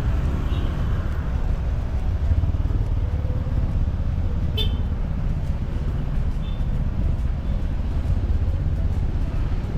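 Steady low rumble of a vehicle travelling on a road, with a short high-pitched beep, like a horn toot, about halfway through.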